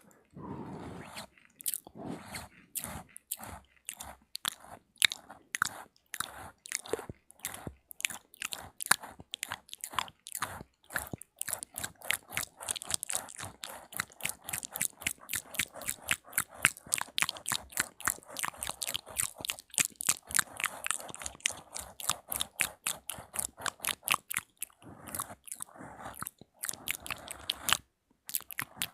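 Close-miked ASMR mouth sounds: a fast, uneven run of sharp mouth clicks, several a second, crowding together through the middle, with a brief pause near the end.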